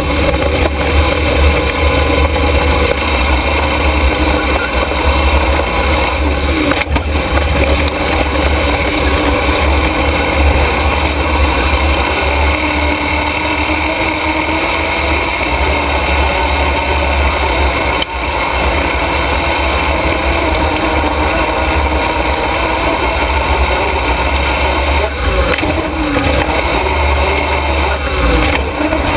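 Race truck engine running steadily at a loud, even drone, with a few small dips in pitch near the end.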